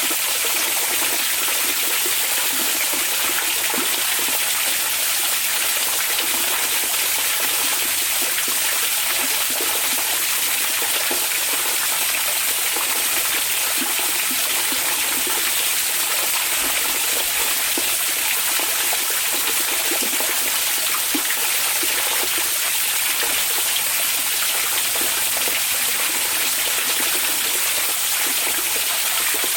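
Hot-spring (onsen) water flowing and splashing steadily, with no pauses or changes.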